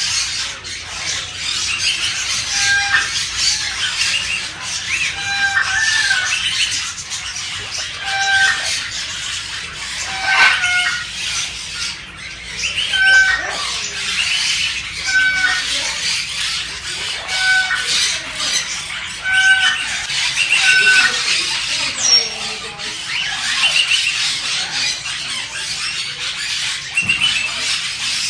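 A flock of parakeets chattering with dense high chirps, with one clear pitched call repeated about every two seconds through most of the stretch.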